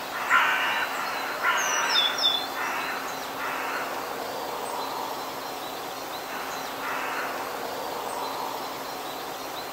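Birds calling over a steady outdoor background noise: a run of half-second calls, several in the first four seconds and one more about seven seconds in, with a few brief high chirps around two seconds in.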